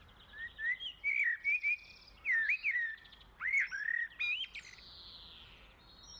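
Songbird singing: a run of short, warbling whistled phrases that stops about four and a half seconds in, leaving faint outdoor background.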